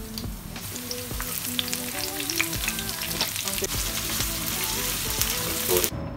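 Minced garlic frying in hot oil in a wok: a steady sizzle with scattered crackles and pops, cutting off suddenly near the end.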